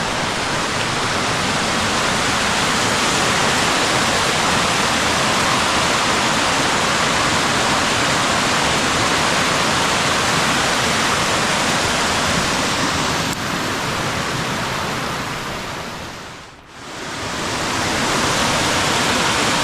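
Sol Duc Falls, a waterfall on the Sol Duc River, rushing steadily. The sound dips away briefly about three-quarters of the way through and swells back.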